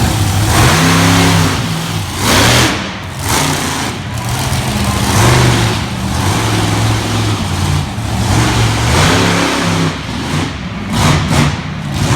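Monster truck engine revving hard in repeated surges, its pitch stepping up and falling back several times.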